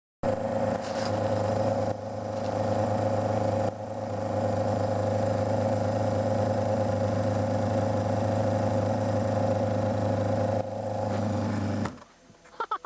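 Yamaha YZF600R motorcycle's inline-four engine running steadily at an even pitch, with brief dips twice. It cuts out near the end, leaving a few short clatters.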